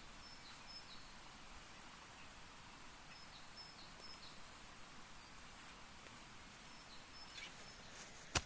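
Faint, high, thin bird calls in a few short groups over quiet forest ambience, with one sharp knock near the end.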